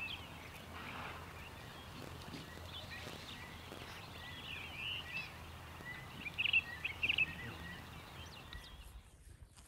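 Outdoor ambience with birds chirping now and then, short high calls scattered through, the loudest a quick cluster about six and a half to seven seconds in.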